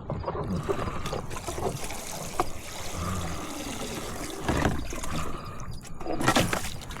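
Water splashing and trickling beside a kayak, with scattered knocks and two louder splashy bursts in the second half.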